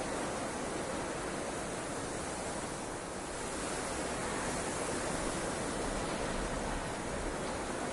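Steady rushing blizzard wind, an even hiss with no breaks.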